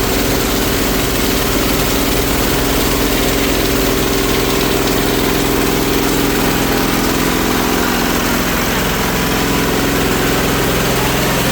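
16 hp diesel engine running steadily, driving a waste sorting machine, with an even, fast low pulse of firing beneath a broad mechanical clatter.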